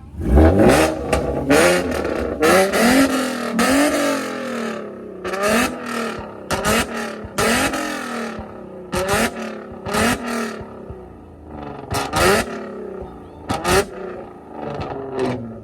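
Car engine revving hard over and over, its pitch climbing and dropping again many times, with sharp loud cracks between the revs, the exhaust popping and backfiring with flames.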